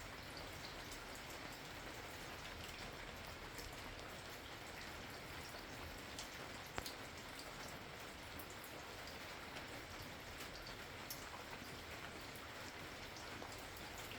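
Steady rain falling, with many individual drops ticking on a hard surface and one sharper drop click about halfway through.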